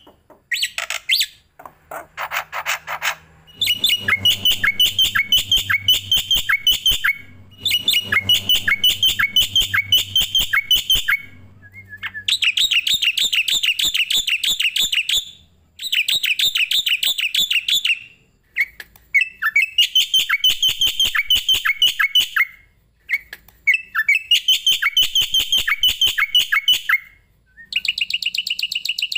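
A songbird giving fast runs of sharp, high chirps, about eight a second, in phrases a few seconds long with short breaks between; a masteran training song for starlings and mynas.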